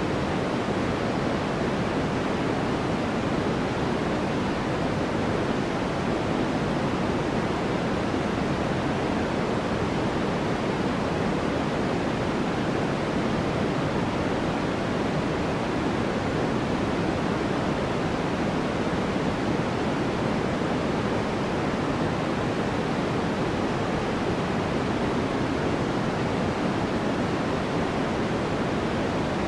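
Steady generated white noise: an even, unbroken hiss that never changes, heavier in the lower pitches than the higher.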